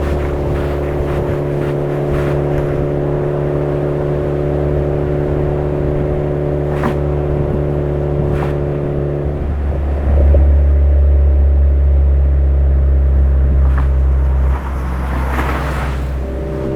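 Suzuki Swift Sport ZC33S's 1.4-litre turbocharged four-cylinder running through a Fujitsubo aftermarket muffler while driving, with a steady engine drone. About nine and a half seconds in, the engine note breaks and resettles, then gets louder under throttle for about four seconds before dropping off abruptly.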